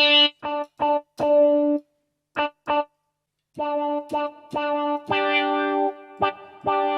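Casio AiX keyboard playing a guitar tone: short, separate plucked notes, a pause of about a second and a half, then longer held chords.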